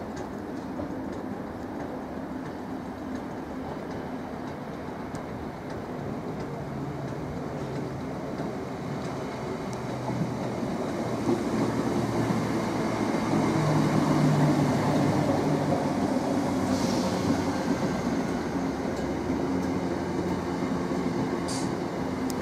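Greater Anglia electric multiple unit running along the platform close by: a steady rumble of wheels and motors that grows louder from about halfway through as the train comes alongside, then stays loud.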